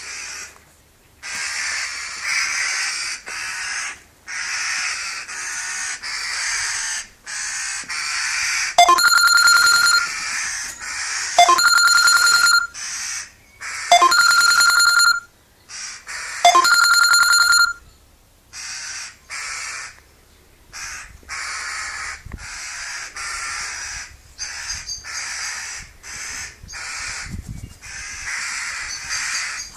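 Birds giving harsh, rasping calls one after another, each lasting about a second. In the middle come four louder, ring-like steady tones, each about a second long and spaced about two and a half seconds apart.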